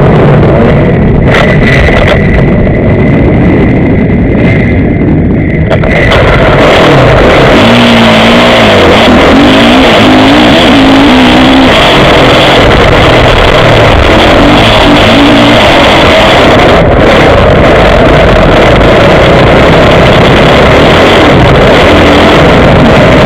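Motocross bike engine running hard and revving up and down as it is ridden, picked up close by an onboard action camera, very loud with rushing wind noise.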